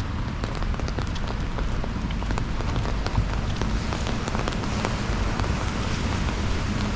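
Steady rainfall, with many small drop ticks over an even hiss and a steady low rumble underneath.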